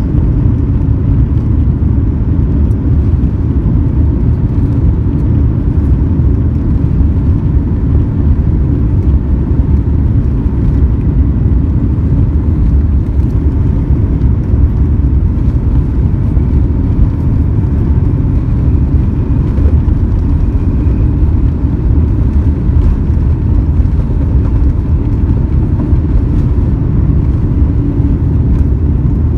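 Cabin noise of an Airbus A350-900 departing under high thrust: its Rolls-Royce Trent XWB engines and rushing air make a steady, loud, low rumble.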